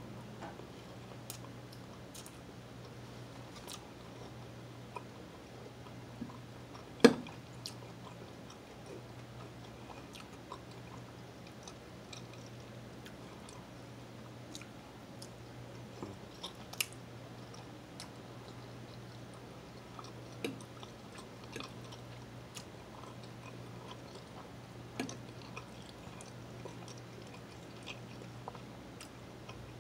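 A person chewing and biting into breakfast food (sausage links and scrambled eggs), with small scattered mouth clicks. A sharp click stands out about seven seconds in, over a steady low hum.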